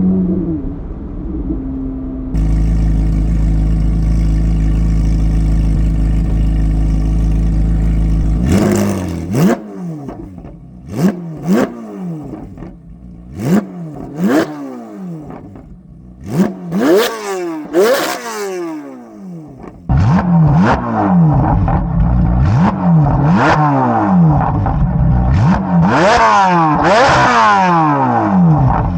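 2024 Corvette C8 Z06's flat-plane-crank V8 through a modified exhaust, driving: a steady loud drone for the first eight seconds or so, then repeated quick revs rising and falling in pitch, with sharp cracks among them, and a dense run of revs from about twenty seconds in.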